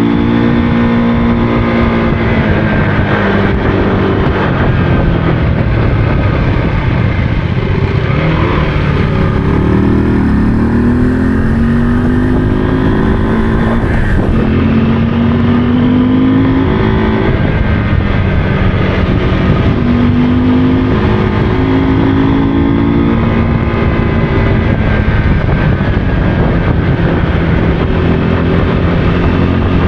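Motorcycle engine running under way, its note rising and falling with the throttle over a steady low rumble.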